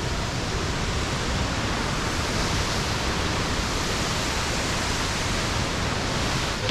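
Misol-Ha waterfall: a large waterfall's falling water making a loud, steady rush.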